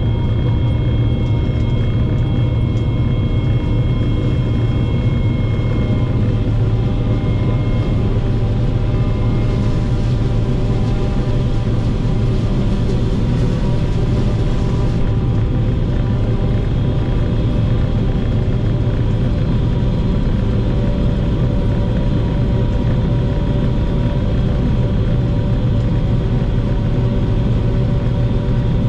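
Tractor engine running at a steady speed: a constant low drone with steady whining tones above it.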